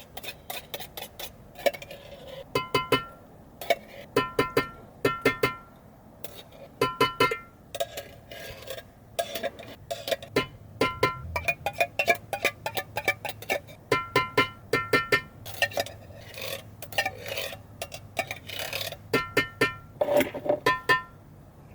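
Hand-held manual can opener working its way around a steel food can: clusters of sharp metallic clicks as the crank turns, each with a short ringing from the can, in uneven bursts.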